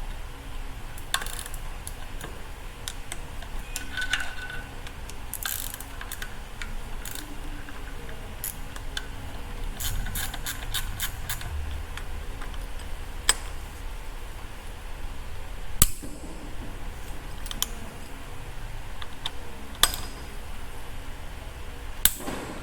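Tools and metal motorcycle-engine parts being handled during disassembly: irregular light clicks and clinks, a brief metallic ring about four seconds in and a few sharper knocks in the second half, over a steady low hum.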